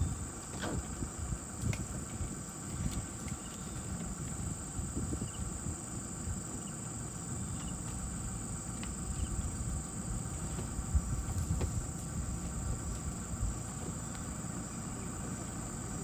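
Steady high-pitched drone of a forest insect chorus, crickets or cicadas, over a low rumbling noise with a few scattered knocks.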